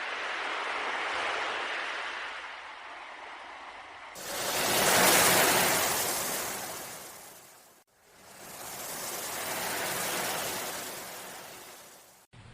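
Ocean waves washing in: three swells of surf noise that rise and fall, the loudest starting suddenly about four seconds in, the last ending abruptly near the end.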